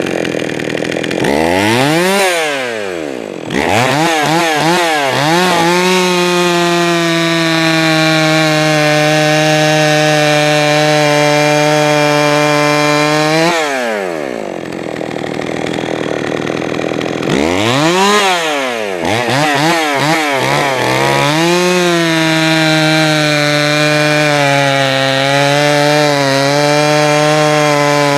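Jonsered 525 two-stroke chainsaw revved from idle to full throttle and held there for several seconds, then dropped back to idle, given a quick blip, and run up and held at full throttle again. This is carburettor tuning: the low-speed mixture and idle screws are being set after the saw hesitated off throttle, ran too lean on the low side and wanted to die at idle.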